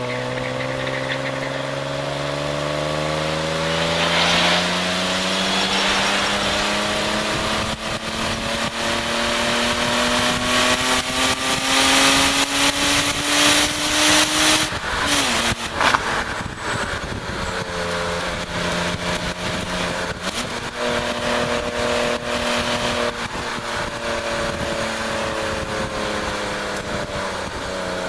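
BMW E36 325is's 2.5-litre straight-six under hard acceleration, its note rising steadily for about fifteen seconds, then dropping abruptly as it comes off the throttle. After that it holds a lower, steadier note and falls again near the end, with wind rushing over the outside-mounted camera throughout.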